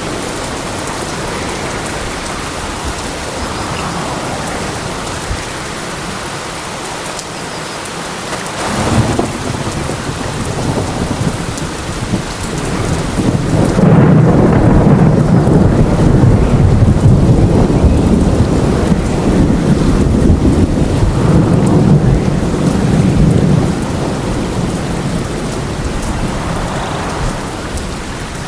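Steady rain falling, with thunder rolling in about a third of the way through: a long, deep rumble that is loudest in the middle and slowly fades toward the end.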